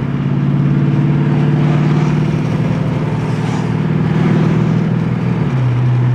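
Car engine running while driving, a steady drone that drops to a lower pitch about five and a half seconds in.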